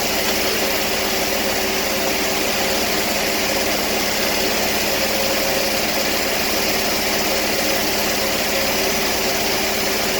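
Sawmill engine running steadily at a constant speed, with a steady drone.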